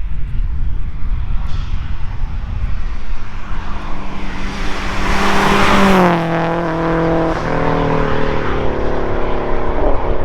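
A performance car passing close by at speed: its engine and tyre noise build to a loud peak about six seconds in, then the engine note drops in pitch as it goes past and pulls away.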